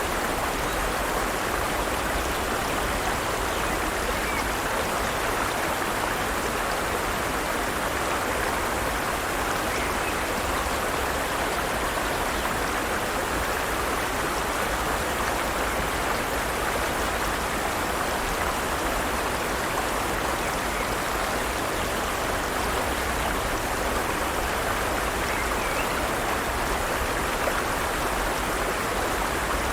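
Forest stream flowing over rocks, a steady even rush of running water.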